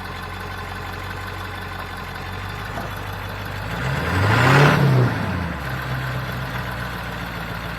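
Ram 1500's 5.7 Hemi V8 idling, then revving up about four seconds in while a wheel spins in the dirt, and dropping back to idle about a second and a half later. The truck is bottomed out on its differential and not in four-wheel drive, so the tire just spins.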